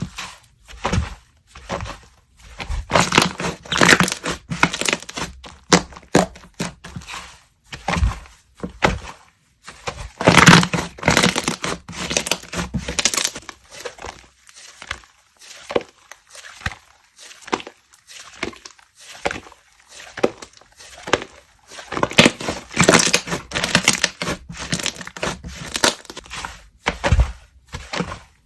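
Slime being squeezed, stretched and pressed by hand, giving irregular wet crackles and pops, with a sparser, quieter stretch in the middle.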